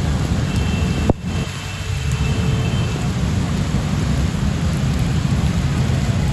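Heavy rain and traffic on a flooded street: a steady rushing noise over a deep rumble, broken by one sharp click about a second in.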